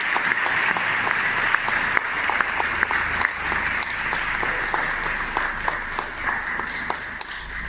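Audience applause: a dense patter of many hands clapping that slowly fades out over the last few seconds.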